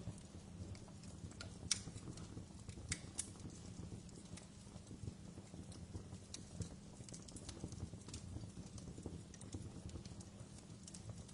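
Wood fire in a fireplace crackling: a low, steady rumble of flames with irregular sharp pops and snaps, the loudest just under two seconds in.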